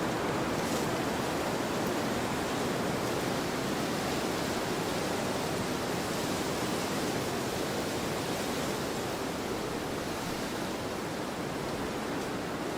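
Steady wind blowing across an open field: an even rushing noise with no distinct gusts.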